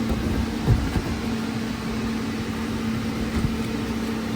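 Steady hum of an inflatable bounce house's electric air blower, with a few low thuds of a child bouncing on the inflatable floor, one under a second in and one past the middle.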